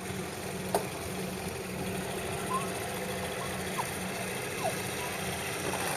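Small boat's engine running steadily with a low hum as the boat pulls away. A sharp click comes just under a second in, and a few short, faint chirps sound over the hum.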